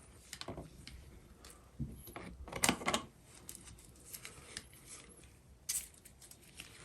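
Light clicks, taps and rustles of small parts being handled during faucet fitting, with a louder cluster of clicks about two and a half to three seconds in.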